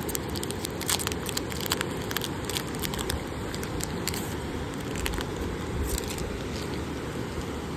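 Crinkling and crackling of foil trading-card packs and cards being handled, many small sharp clicks over a steady rushing background noise.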